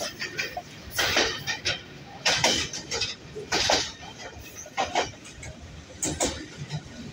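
Train wheels clacking over rail joints, heard from inside a moving coach, with metallic clinks and rattles in a steady beat about every 1.3 seconds over a low running rumble.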